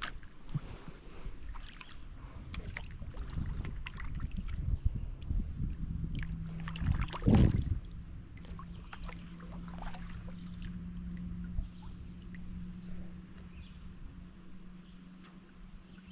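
Canoe being paddled: the paddle moves in the water with knocks and bumps against the hull, the loudest about seven seconds in. A steady low hum joins from about six seconds in.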